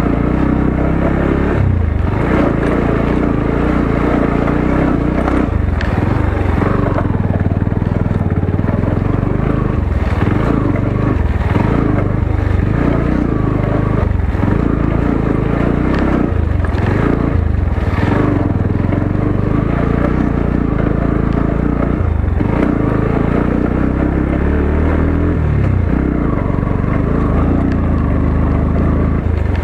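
Motorcycle engine running steadily as the bike is ridden over a rough off-road track, its revs rising and falling. Occasional knocks sound over it.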